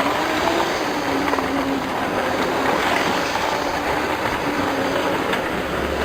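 Moving vehicle running steadily, a loud, even rushing rumble.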